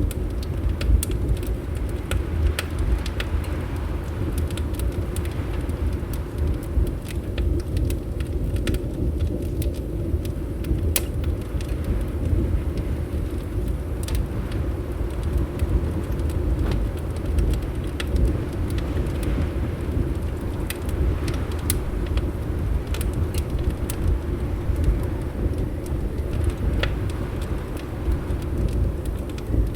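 Fireplace crackling, with sharp, irregular pops scattered through a steady low rumble.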